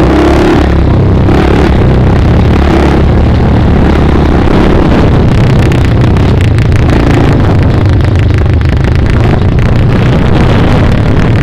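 Dirt bike engine running loud and steady while being ridden.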